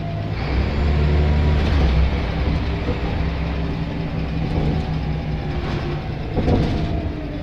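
Scania L94 bus's diesel engine running under way, its pitch easing down near the end, with a couple of short knocks and rattles.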